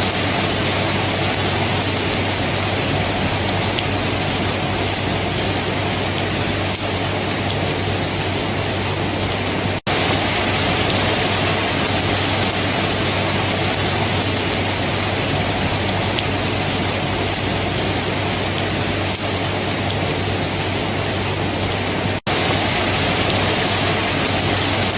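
Steady heavy rain falling, an even hiss of drops on surfaces. It cuts out for an instant twice, about ten seconds in and again near the end.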